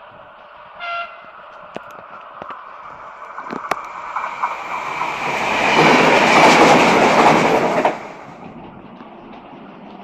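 A Renfe train gives a short horn blast, then passes close by with a rushing, clattering noise and a faint high whine. The noise builds over a few seconds and drops away suddenly about two seconds before the end.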